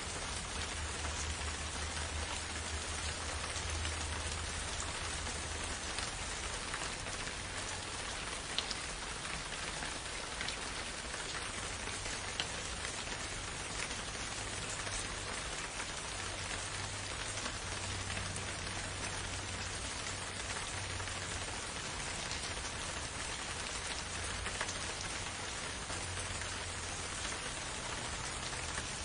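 Steady rain falling in a forest, with single drops ticking out now and then over the even patter. A low rumble underneath swells and fades.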